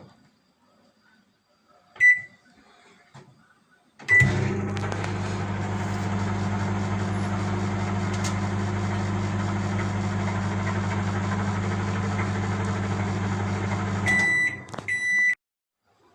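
900-watt microwave oven: a keypad beep, then the oven runs with a steady hum for about ten seconds. The hum stops and the end-of-cycle beeps sound.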